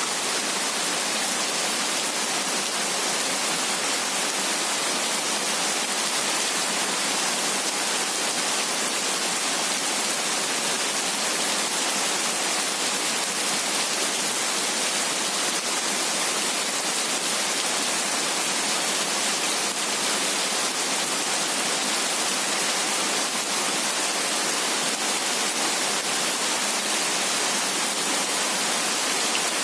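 Heavy rain falling steadily: an even, unbroken hiss of raindrops.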